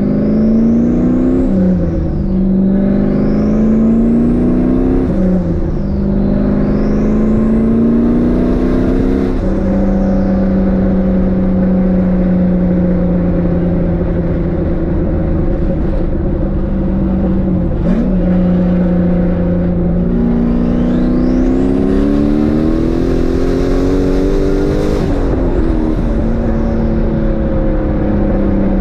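Turbocharged V8 of a 1998 Chevy Camaro SS pulling hard up through the gears: the engine pitch climbs and drops sharply at three quick upshifts, then holds steady while cruising, and pulls up once more near the end. A high turbo whistle rises each time the engine is under boost.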